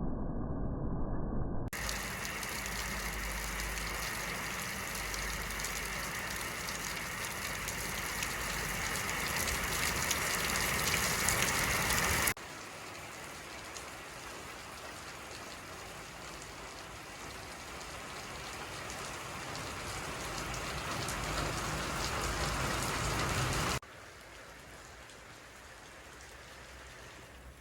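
Steady rain falling, an even hiss of many drops, made of several recordings spliced together: the sound changes abruptly about two seconds in, again about twelve seconds in, and again near the end, each part at a different loudness. A muffled low rumble comes before the first cut.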